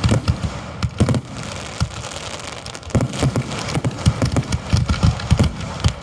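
Fireworks display heard close to the launch area: a dense, rapid run of shell bursts and launch bangs, several a second and overlapping, over a steady crackling hiss.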